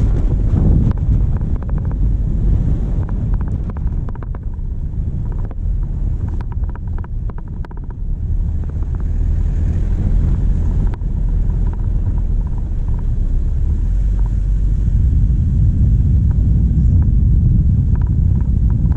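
Diesel vehicle engine running steadily under wind buffeting on a bonnet-mounted microphone. A cluster of short clicks and rattles comes through a few seconds in.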